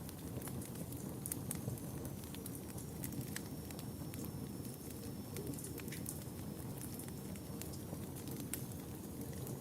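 Wood fire burning in a fireplace, with a steady low rush of flame and frequent sharp, irregular crackles and pops. A faint high thin whistle runs through most of it.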